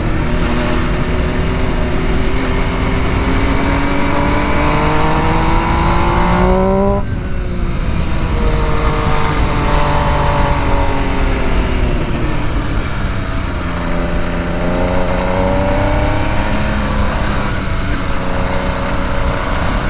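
Sport motorcycle engine under hard throttle. Its pitch climbs steadily for about seven seconds, drops sharply as the throttle closes, then rises and falls again several times as the rider works through the gears, over a constant rush of wind.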